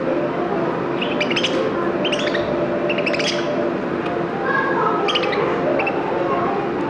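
A small pet bird chirping in short, high bursts, a few times a second apart, over a steady background din.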